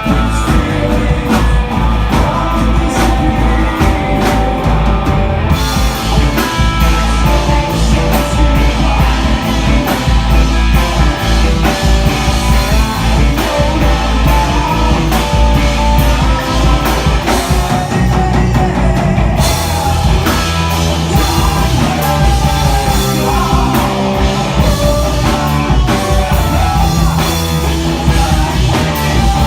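Rock band playing live: electric guitar, bass and drum kit. The sound turns fuller and brighter about five seconds in, thins briefly a little past the middle, then fills out again.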